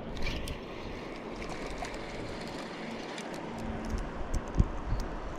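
Steady rush of river water with wind buffeting the microphone in uneven low rumbles. There are a few sharp knocks near the end.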